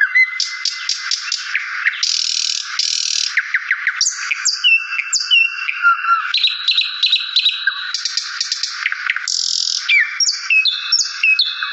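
Several small birds chirping and twittering at once, with short whistled slurs, a few held whistles and rapid trills overlapping throughout.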